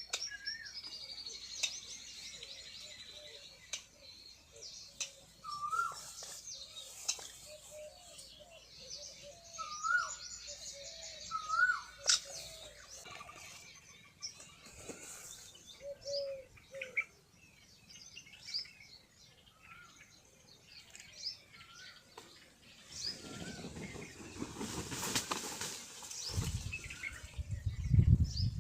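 Wild birds calling: short, repeated up-and-down chirps and lower warbling notes, several birds at once. Near the end comes a rush of noise, then loud low thumping.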